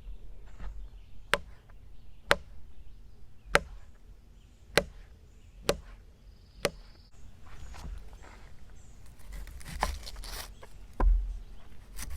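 A kitchen knife chopping food on a board: six sharp single chops about a second apart, then quicker, softer cutting and scraping near the end.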